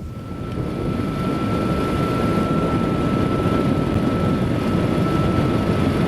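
Motorcycle ridden at a steady cruising speed: engine and road noise mixed with heavy wind rush, and one steady high whine held throughout.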